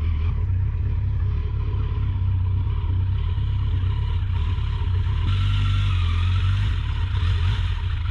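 Kawasaki motorcycle engine running steadily at low speed, a continuous low rumble.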